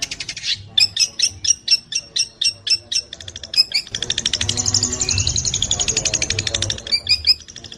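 Long-tailed shrike (cendet) singing: a quick series of sharp, high notes, then a fast buzzy trill about four seconds in, and a few more sharp notes near the end.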